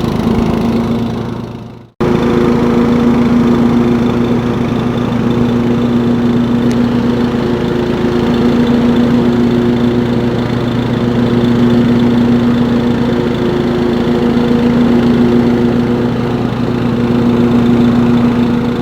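Ride-on lawn mower's engine running steadily with a constant hum. The sound cuts out for an instant about two seconds in and then comes straight back.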